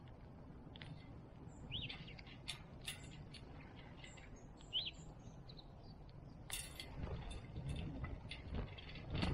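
Small wild birds giving a few short, high chirps, mixed with scattered light clicks and taps and a brief rustle about six and a half seconds in, over a faint low outdoor rumble.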